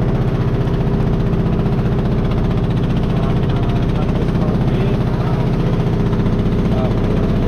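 Boat engine running steadily at an even speed, a constant low drone.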